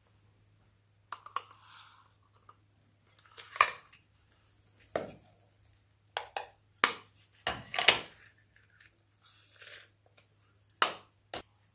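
Slime being squished, stretched and kneaded by hand: an irregular string of sticky pops, clicks and crackles, with a faint steady low hum under it.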